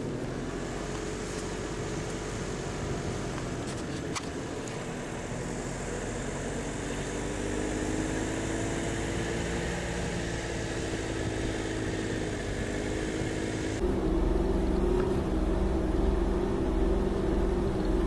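A vehicle engine running continuously while driving over snow. About fourteen seconds in, the sound changes abruptly: the high hiss drops away and the engine note becomes louder and steadier.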